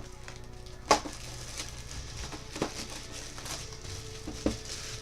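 Faint background music, with three sharp clicks and taps from a sealed baseball-card box and its packs being handled. The first click, about a second in, is the loudest.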